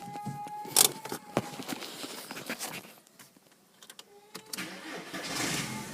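Key-start of a VW Golf Mk4's 1.6-litre four-cylinder petrol engine: a sharp click about a second in and short electronic tones, then the engine starting near the end with a low rumble that carries on.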